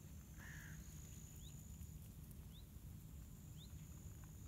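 Faint outdoor ambience: a bird gives short rising chirps about once a second, over a low rumble and a steady thin high tone.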